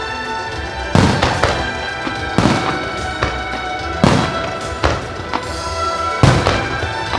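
Aerial firework shells bursting, several loud bangs a second or so apart, with music played along with the display.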